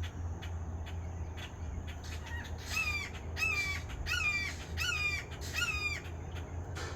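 Red-shouldered hawk calling a series of five loud, repeated calls, each a clear note that drops in pitch at the end, about two calls a second in the second half. Fainter, shorter calls come before the series, over a steady low hum.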